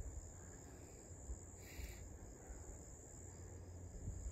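Insects trilling faintly: a steady high-pitched drone with a softer chirp pulsing about three times a second beneath it. Low rumble runs underneath, and a brief hiss comes about halfway through.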